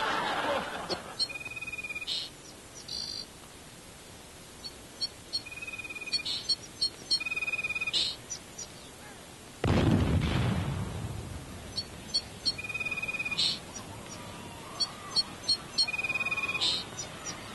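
Birds chirping in short, repeated phrases of a held note with a trill and quick clicks, the phrases recurring in almost identical form. About ten seconds in, a sudden loud rumbling burst cuts in and fades away over a couple of seconds.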